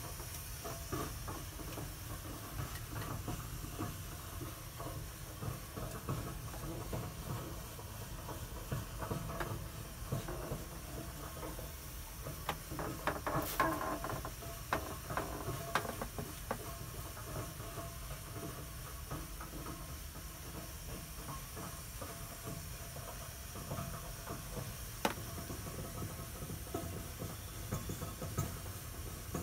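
Residential hot-water heating boiler making a steady low hiss and rumble, with scattered clicks and a short stretch of crackling about halfway through.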